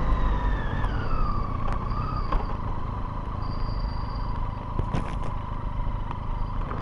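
Vehicle engine running with a low rumble while a whine falls in pitch over the first second or so as the vehicle slows, then holds steady. A few light clicks sound about 2 and 5 seconds in.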